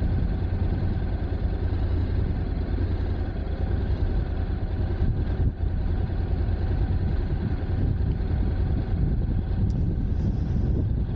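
Honda NC750X DCT's 745 cc parallel-twin engine idling steadily while the motorcycle stands still, a low even rumble.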